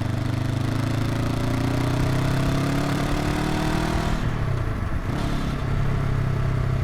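Honda NX500's 180-degree parallel-twin engine pulling under acceleration, its pitch rising steadily. About four seconds in the throttle closes and the revs drop, then the engine settles into a steady lower note.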